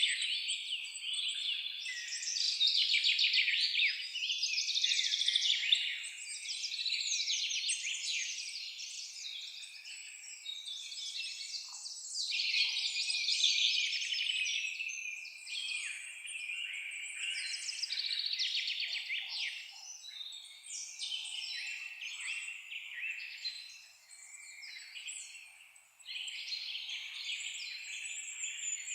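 Many songbirds singing at once: a dense chorus of rapid high-pitched chirps and trills, overlapping and swelling and fading, thinning briefly near the end.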